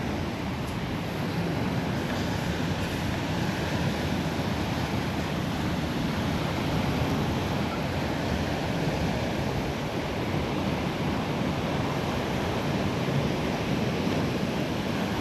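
Steady beach ambience: surf washing on the shore and wind on the microphone, an even rushing noise with no distinct events.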